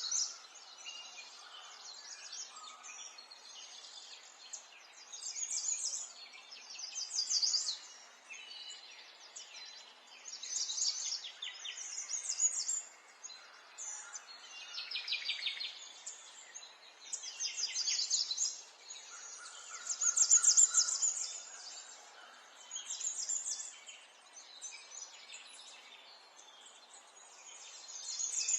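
Small songbirds chirping and twittering in quick trills, a fresh burst every couple of seconds, some of them sliding down in pitch, over a steady faint background hiss.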